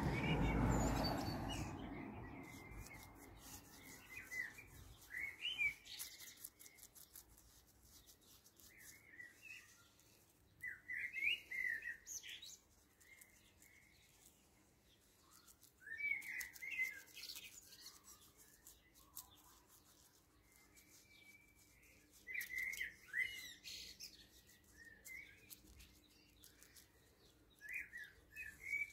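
A songbird sings short chirping phrases, a burst of song every few seconds. A brief rustling noise fades away in the first two seconds.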